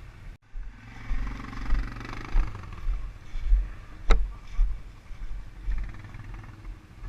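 Quad bike engine revving for a second or two, with a single sharp knock about four seconds in.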